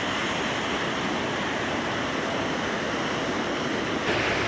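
Steady rushing of a river running high after days of rain, turning slightly louder and brighter near the end.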